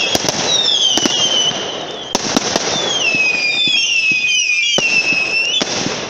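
Fireworks, several whistling at once, each whistle falling in pitch, with sharp cracks and bangs among them.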